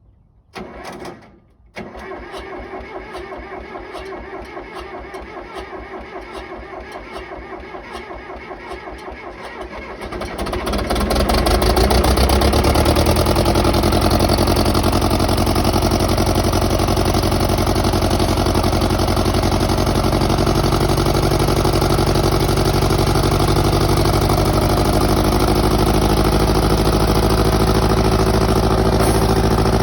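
A John Deere 450-C bulldozer's diesel engine is cranked on the starter with a steady rhythmic churn for about eight seconds after a brief first try. It catches about ten seconds in and then runs steadily and much louder.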